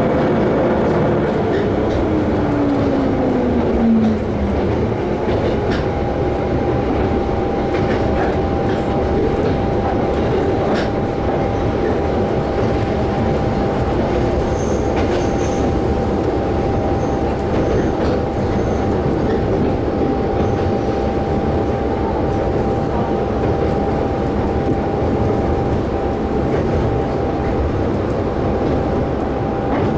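Cabin sound of a Tsugaru Railway diesel train running along the line: a steady rumble of engine and wheels, with scattered clicks of the wheels over rail joints. A tone falls in pitch over the first few seconds, and a steady high whine sets in after about six seconds.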